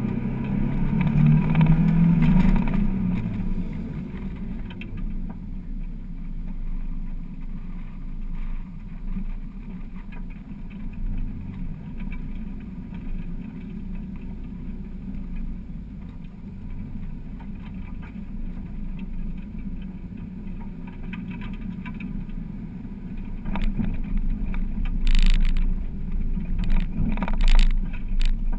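1999 Mazda Miata's 1.8-litre four-cylinder engine, heard from inside the open-top car: running harder with its pitch moving for the first few seconds, then settling to a steady, quieter low-speed running as the car drives gently. Wind buffets the microphone in short gusts near the end.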